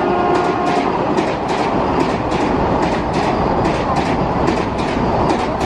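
Vande Bharat Express electric trainset passing through a station at speed: its two-tone horn ends about a second in, then a loud rushing with the wheels clattering over rail joints in a quick, steady rhythm.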